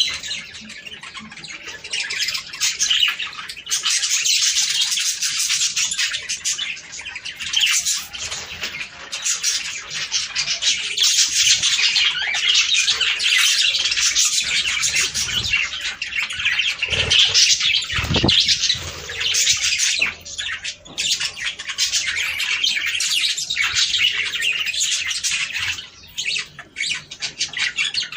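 A flock of budgerigars chattering and warbling continuously, many birds at once, with high chirps and squawks overlapping. A few brief low thumps come about two thirds of the way through.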